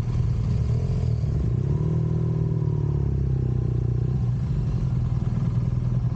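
Vehicle engine running steadily under way, its pitch rising a little about two seconds in and settling back down a couple of seconds later.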